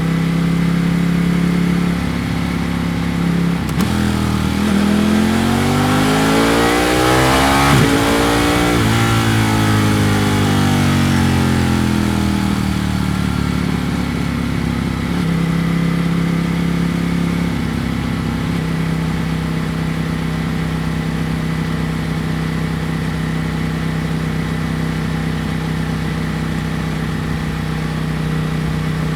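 Ducati Panigale V4 S's V4 engine, heard from the rider's position. It runs at a steady pitch, then revs up smoothly as the bike accelerates, with wind rush growing, and falls back over several seconds as it slows. It then settles at a steady pitch again.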